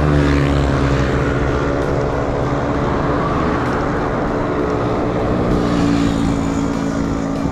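A motor vehicle's engine running close by, a steady drone whose pitch drifts slightly down and then back up.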